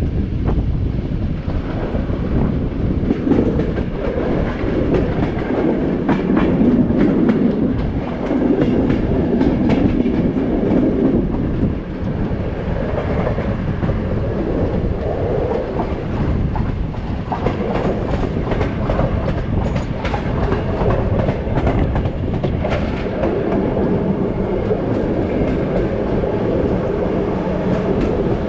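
A passenger train's coach wheels rolling on the track, a steady rumble with many irregular sharp clicks as they clatter over the rails, heard from an open coach window.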